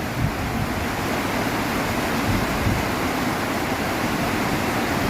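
Heavy rain pouring steadily, a dense even hiss during a thunderstorm.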